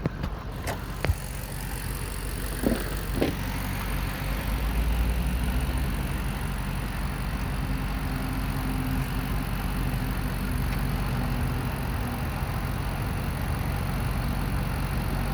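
A car engine idling steadily, with a few clicks and knocks in the first few seconds.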